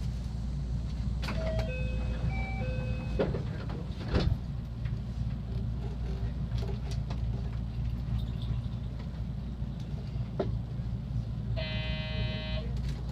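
Electric train at a station stop, then pulling away: a steady low rumble throughout. About two seconds in, a short electronic chime of several stepped tones; about four seconds in, a sharp thump. Near the end, a steady buzzing tone lasting about a second.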